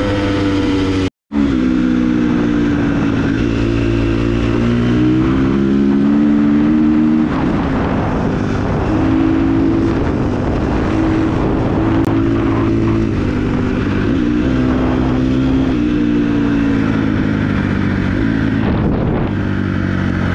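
Dirt bike engine running under way, its pitch rising and falling in steps with throttle and gear changes. The sound cuts out briefly about a second in.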